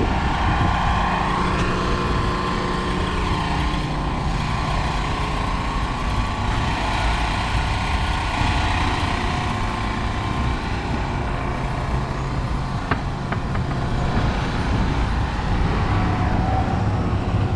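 An engine running steadily: a low, even hum.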